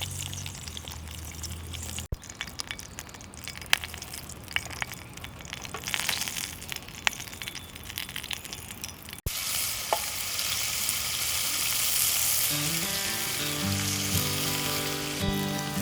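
Meat sizzling on a grill over a campfire, with scattered sharp clicks and crackles. About nine seconds in, the sizzle cuts to a louder, steadier hiss, and background music comes in during the last few seconds.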